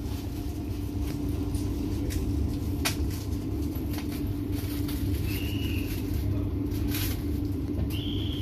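Passenger train running through an underground station: a steady low rumble with a constant hum, a few light clicks, and two short high-pitched tones, one about halfway through and a longer one near the end.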